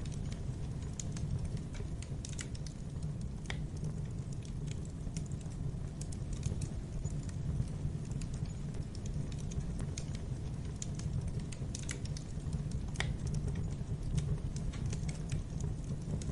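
Wood fire crackling in a fireplace: scattered pops and snaps over a steady low rumble of the flames.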